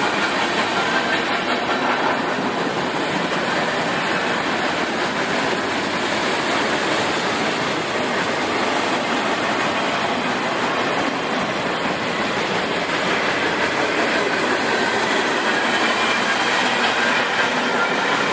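A train rolling past on the tracks in a steady, even rush of sound, mixed with falling rain.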